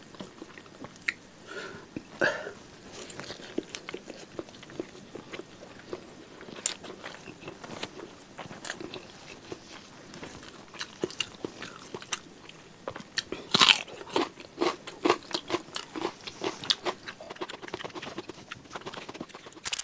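Close-miked chewing and eating: wet mouth clicks and small crunches from a mouthful of rice and beef tongue eaten by hand, with a louder flurry of crunches about two-thirds of the way through.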